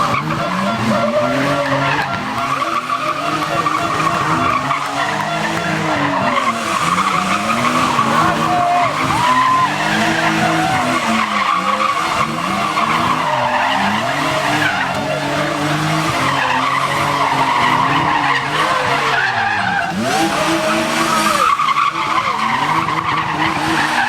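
Drift car's engine revving up and down again and again as the driver works the throttle, with its tyres squealing in long, continuous skids.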